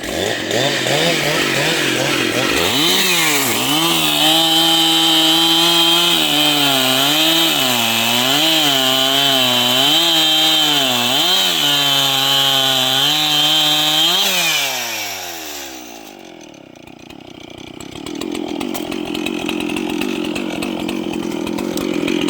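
Large two-stroke chainsaw running at full throttle and cutting, its pitch dipping and recovering again and again as the chain bites into the wood. About 14 to 15 seconds in the throttle is released and the pitch falls away; from about 18 seconds a lower, steadier engine sound runs on.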